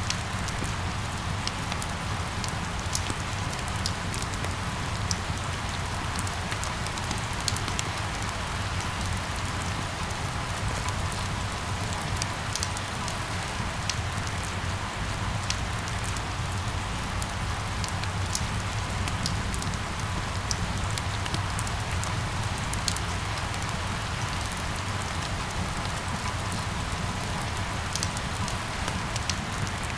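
Steady rain pattering on a surface, with many small scattered drop ticks over a low, even rumble.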